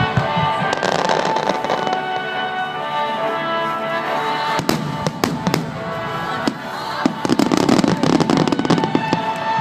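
Fireworks bursting and crackling over music accompanying the display: a few sharp bangs about halfway through, then a dense crackle.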